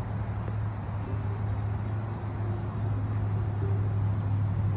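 Outdoor field sound of insects chirping steadily, over a steady low hum.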